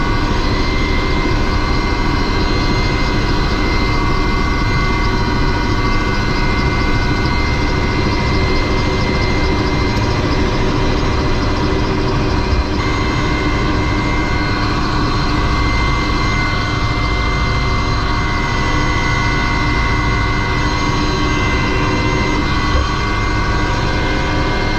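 Helicopter turbine engines and rotor running steadily at close range, a loud continuous noise with a high turbine whine held throughout.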